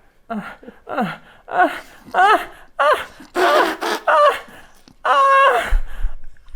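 A person making exaggerated moaning and gasping sounds: a run of short moans with sliding pitch, then one long held moan near the end, mimicking an orgasm.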